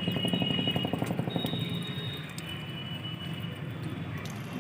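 A pet parrot bathing in water, splashing. A fast, even patter runs for about the first second and a half, then a softer, steady splashing follows.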